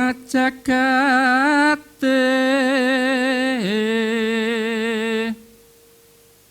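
Solo voice singing a Javanese sung invocation in long, wavering held notes, with a sliding dip in pitch about three and a half seconds in. A faint steady tone holds beneath it, and the singing stops a little after five seconds.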